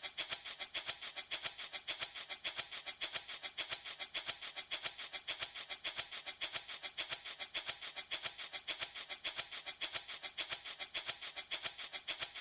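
Handmade wooden baby rattle shaken steadily, giving a crisp, bright rattling in a quick, even rhythm of several shakes a second.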